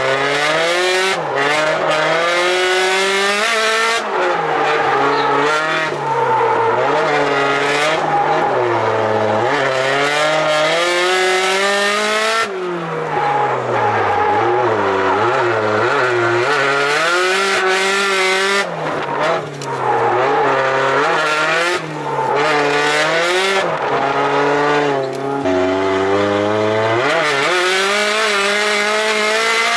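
Turbocharged car engine driven hard on a track lap, revs climbing and falling again and again, with several short dips in loudness where the driver lifts or changes gear.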